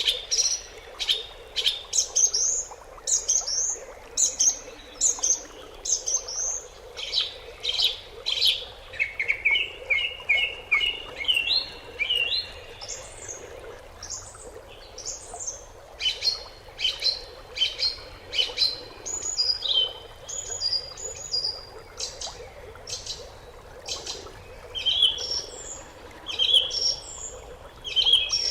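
Songbirds chirping and singing, a steady stream of short high notes and whistles, with a quick run of repeated notes climbing in pitch about a third of the way through.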